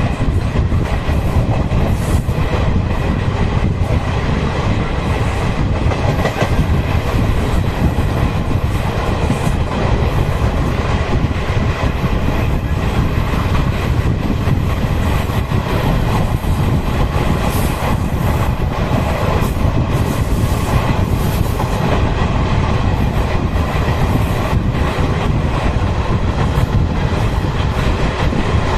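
A passenger train running at speed, heard from its own coach: a steady loud rumble of wheels on rail, with scattered clicks over the rail joints.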